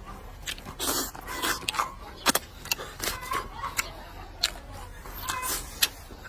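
Close-miked eating: irregular clicks and smacks of chewing, several a second, with a longer noisy smear about a second in and again near the end.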